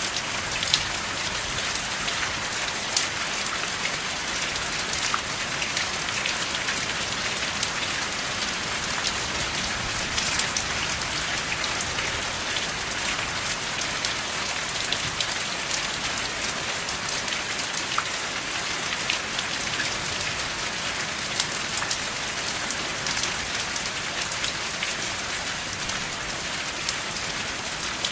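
Steady rain falling, an even hiss with many individual drops ticking through it and no thunder.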